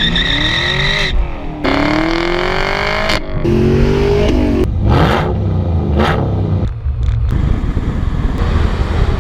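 Car engines revving and accelerating, their pitch climbing and falling. The sound is made of several short clips cut together, so it changes abruptly every second or two.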